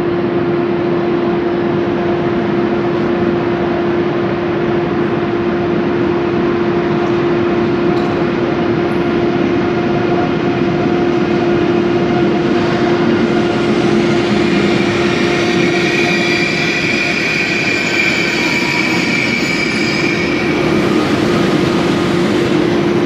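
ICE 3 high-speed electric train pulling into the platform and braking, over a steady hum. Several high squealing tones build in the second half as it slows, then fade near the end.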